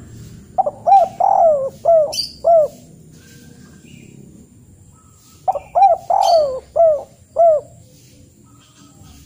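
A bird calling: a phrase of about five short, arching notes, given twice about five seconds apart, with faint high chirps in between.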